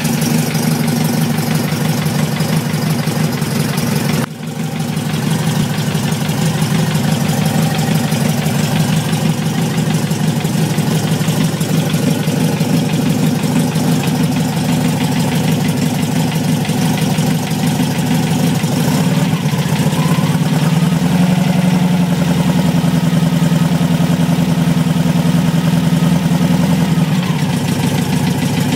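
VW Beetle engine idling with a knock, in an engine with under 50 miles on it; the owner wonders whether it is the lifters, loose valves or a bad connecting rod. The level dips briefly about four seconds in.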